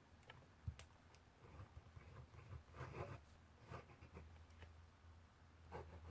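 Faint writing on paper: a few short scratchy strokes, with a single sharp click a little under a second in.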